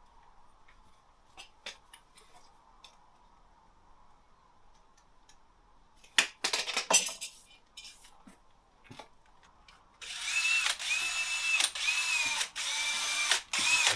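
Handheld power drill running in several short bursts back to back, its motor whine dipping and restarting with each squeeze of the trigger, from about ten seconds in. Before that, scattered light clicks and a brief clattering rustle of handling.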